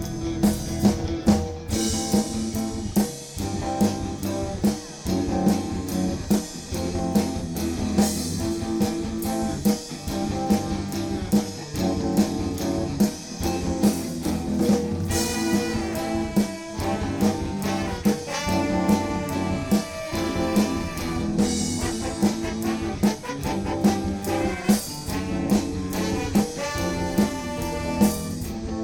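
Live soul band playing, with a brass horn section over a drum kit beat.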